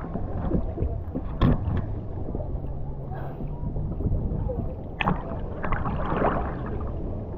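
Gusty wind buffeting the microphone with a steady rushing of sea water, as a storm blows in over the beach. There are a couple of sharp knocks, about a second and a half and five seconds in.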